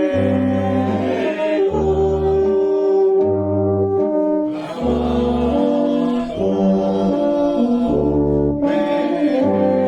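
Town wind band with brass to the fore, playing a slow piece in long held chords, the bass moving in steps about once a second.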